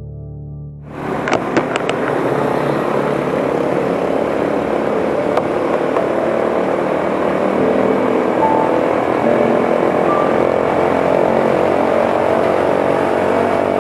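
Motorcycle running at a steady speed, its engine mixed with dense road and wind noise; a piano music bed cuts off about a second in, followed by a few sharp clicks.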